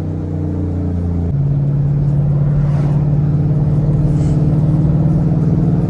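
2013 Mustang GT's 5.0-litre V8 running through a straight-piped exhaust, with the muffler and resonators deleted. About a second in, the engine note jumps up in pitch and gets louder, then holds steady.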